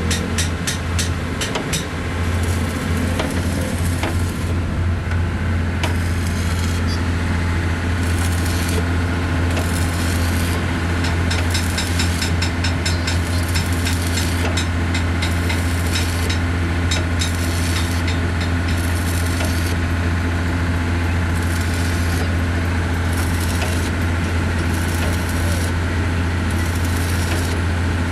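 A machine running steadily with a strong low hum, with scattered clicks and scraping over it.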